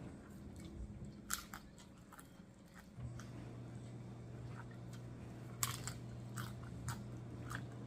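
Crunching bites into crispy yellow-corn taco shells and chewing, with scattered sharp crackles, the loudest about a second in and again past five seconds.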